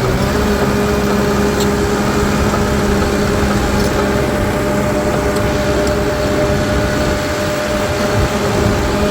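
Caterpillar bulldozer's diesel engine running steadily, a constant drone with an even hum as the dozer moves off.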